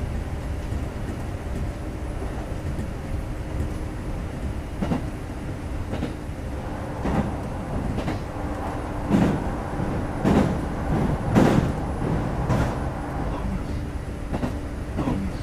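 Kintetsu 2430 series electric train heard from inside the car while running: a steady rumble with a low hum, and wheels clacking over rail joints about once a second, loudest in the second half.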